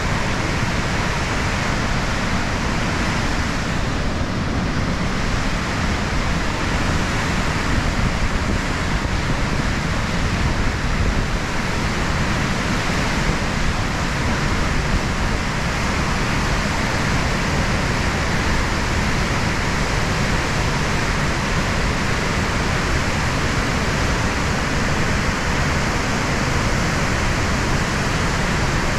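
Waterfall water pouring and rushing in a loud, steady, unbroken roar of white noise.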